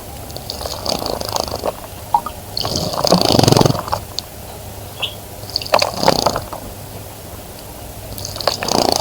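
An animal's rhythmic, snoring-like breathing: four long breaths, roughly every two and a half seconds.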